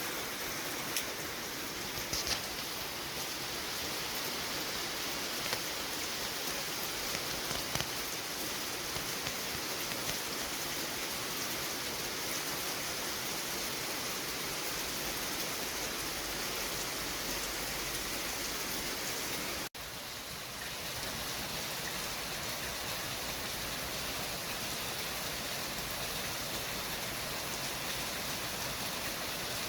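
Steady, even hiss of city traffic white noise, with a few faint ticks in the first eight seconds and a sudden, brief dropout about two-thirds of the way through.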